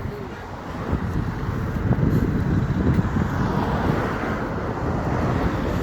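Motor vehicle running, with steady engine and road noise that builds about a second in and then holds even.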